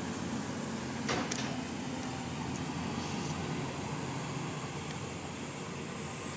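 Excavator diesel engine running steadily, with a brief metallic clank about a second in.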